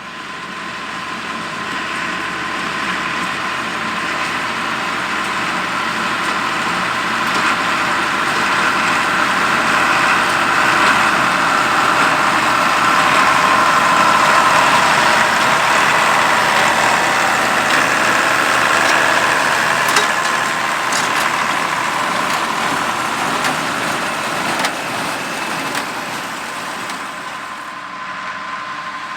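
Allis-Chalmers 200's turbocharged six-cylinder diesel engine running steadily as the tractor pulls a square hay baler. It grows louder toward the middle and then fades again as it passes.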